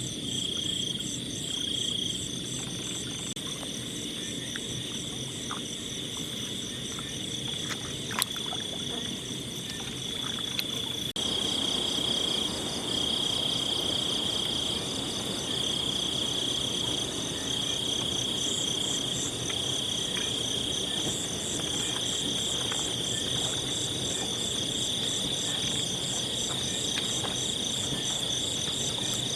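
Night chorus of insects and frogs in tropical forest: a steady high, shrill trill that pulses in long stretches, with faster pulsing chirps above it and a low, even background beneath. A few faint clicks come about eight and ten seconds in, and the chorus grows slightly louder after about eleven seconds.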